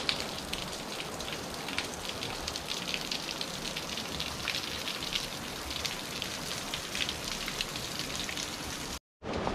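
Water drops pattering on jungle foliage: a steady hiss dotted with many small, irregular ticks.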